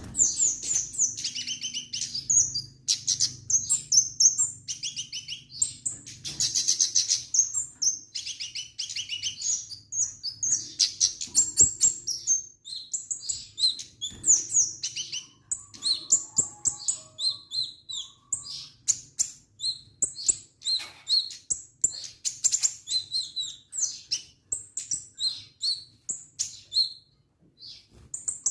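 A caged kemade songbird singing vigorously and almost without pause: a fast, varied run of high chirps, trills and twitters.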